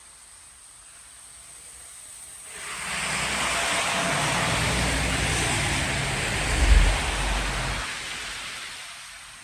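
A vehicle driving past: tyre noise and a low engine rumble swell up about two and a half seconds in, peak near seven seconds, then fade away.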